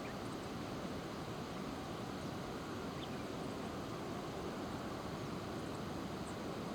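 Steady rushing background noise outdoors, even throughout, with no distinct calls or events.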